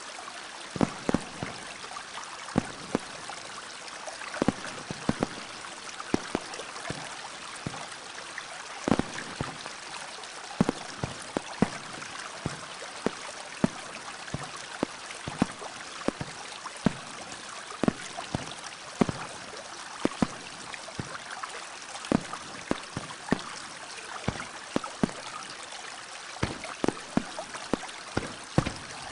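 Steady rush of running water, with many sharp, irregular clicks and pops, several a second.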